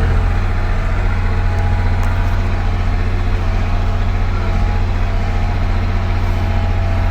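Ford 3930 tractor's three-cylinder diesel engine running steadily under way in fourth gear, low range, heard from inside the cab.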